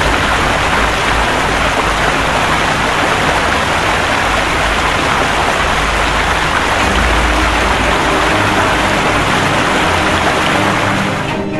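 Loud, steady rush of heavy water, as of floodwater or a downpour, with low rumbling surges.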